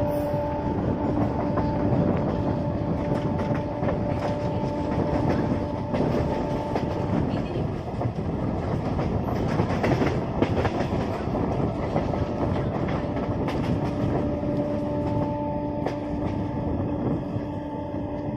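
Electric suburban local train running along the track, heard from on board: a steady rumble with the rapid clicks and clacks of wheels over rail joints. A steady hum fades out in the first second or so and comes back over the last few seconds.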